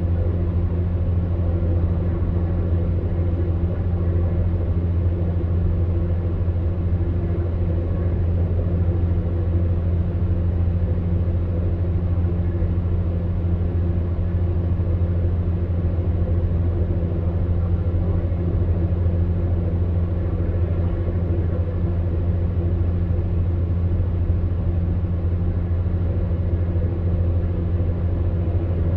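Electric fan heater running steadily: a constant low hum with a few fainter steady tones above it and the airy rush of its fan.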